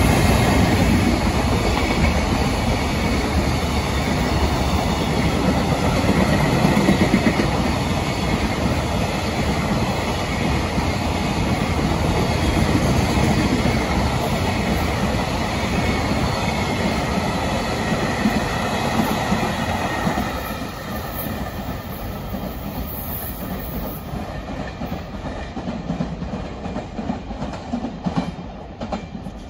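Freight train of container wagons behind a JR Freight EF210 electric locomotive passing close by at speed: a steady rolling rumble with wheels clattering over the rail joints. It drops off about twenty seconds in as the last wagons go by, leaving lighter scattered clacks.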